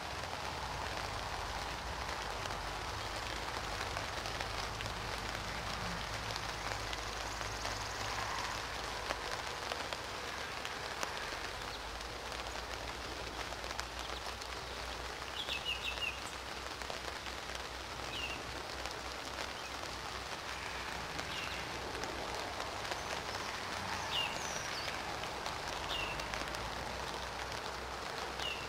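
Steady rain falling. From about halfway through, a bird gives short, high, downward chirps every second or two.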